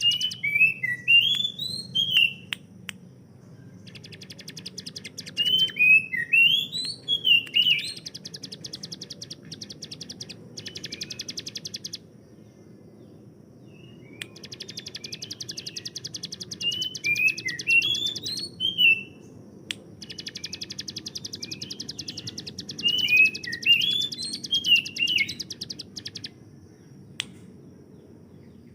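Bar-winged prinia (ciblek gunung) singing: long, very rapid machine-gun-like trills (the 'tembakan' prized by bird keepers) alternating with clusters of short sweeping whistled notes, broken by two short pauses.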